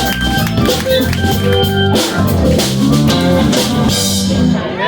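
A live band plays with drum kit, bass and electric guitar, the drums marking a steady beat with rimshots and kick drum. The music stops at the very end.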